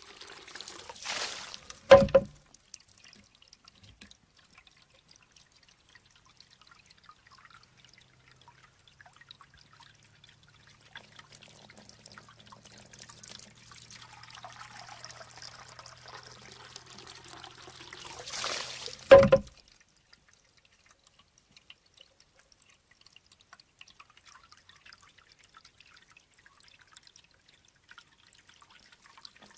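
Shishi odoshi (bamboo deer scarer): a thin stream of water trickles into the bamboo tube. Twice, about 17 seconds apart, the tube tips and spills its water with a short splash, then swings back and strikes its stone with a sharp, hollow knock.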